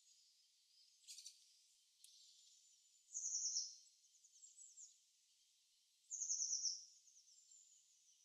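Birdsong from a recorded ambience track: a short, bright descending trill sung twice, about three seconds apart, with faint chirps in between.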